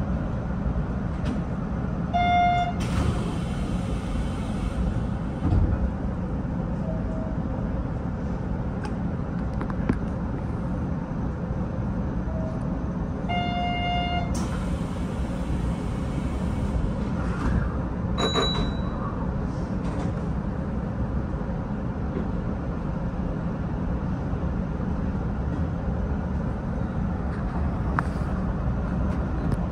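Hanshin electric train running on the line with a steady rumble. It sounds two short horn toots about eleven seconds apart, each followed by a couple of seconds of hiss.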